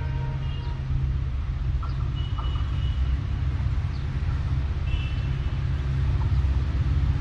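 Low, steady rumble of an approaching train, growing slightly louder near the end.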